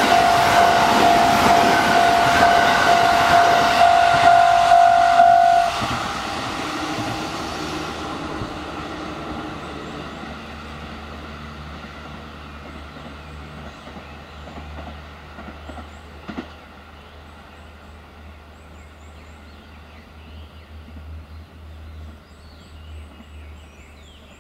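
A 285 series electric sleeper train running through a level crossing, with the crossing's warning bell sounding steadily. About six seconds in the bell stops and the train noise fades away, leaving only a faint low hum.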